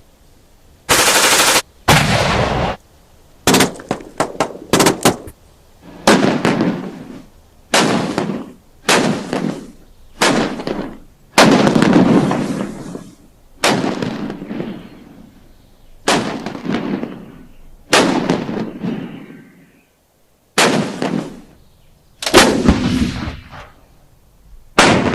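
Gunshots from a military firearm: about a dozen loud single shots, each followed by a long echoing tail, with a quick burst of several rapid shots about four seconds in.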